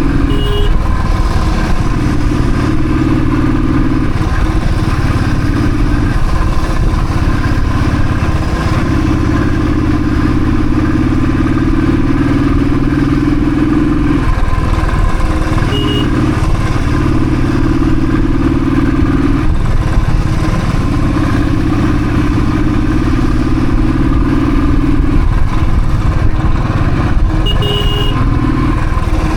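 Royal Enfield Thunderbird's single-cylinder engine running on the move, its pitch stepping up and down every few seconds as the rider works the throttle. Three short high beeps cut through it, about half a second in, around the middle and near the end.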